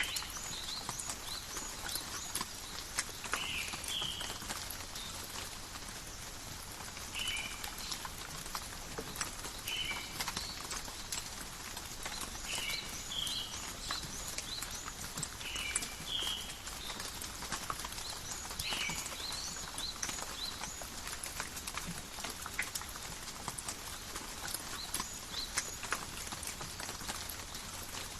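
Steady light rain falling in a forest, with many individual drops ticking and pattering close by. Short high chirps from an animal repeat every two to three seconds.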